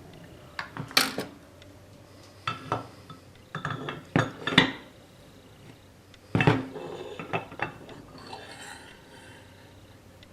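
Steel lathe parts and tools clinking and knocking together as they are handled and fitted during headstock reassembly: a series of sharp separate metallic clinks in small irregular clusters.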